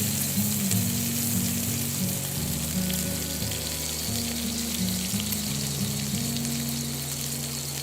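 Food frying in a hot pan, a steady crackling sizzle. Background music with low held notes plays under it.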